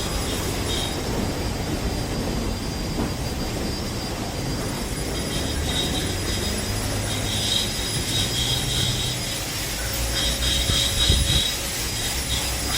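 Steam car-wash machine running, a steady hiss over a low rumble, with a faint intermittent chirping on top.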